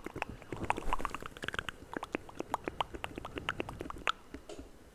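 Close-miked ASMR mouth sounds: a fast, irregular run of wet clicks, tongue pops and lip smacks.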